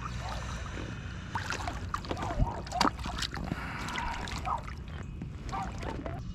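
Irregular knocks, clicks and small splashes on and beside a plastic fishing kayak as a just-landed small catfish is handled, over a steady low rumble.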